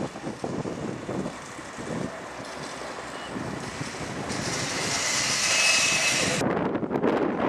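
Aircraft engine noise, a steady rushing that swells over several seconds with wind on the microphone; the high hiss cuts off suddenly about six and a half seconds in.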